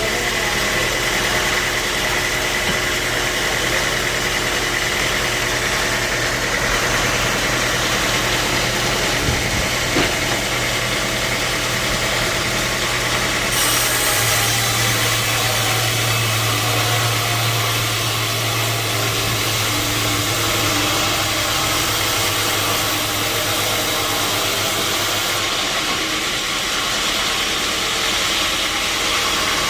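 Sawmill machinery running steadily with an engine-like hum. From about a third of the way in, a higher hiss and a stronger low hum join for about ten seconds, then drop back; there is one short knock before that.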